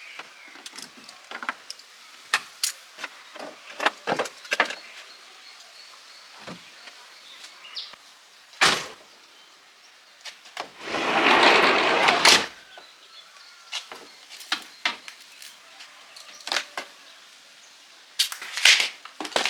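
Workshop handling sounds: scattered clicks and knocks of tools and metal parts, with a dense hissing burst of about a second and a half near the middle.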